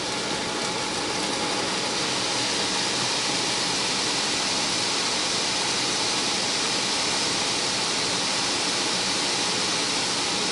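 Water jets of a Belanger Vector touchless automatic car wash spraying the car, a steady hiss heard from inside the cabin.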